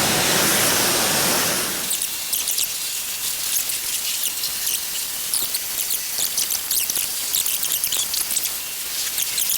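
Car-wash wand spraying water onto the side of a coach. A full rushing hiss thins, about two seconds in, to a higher, crackling hiss of spray and spattering droplets.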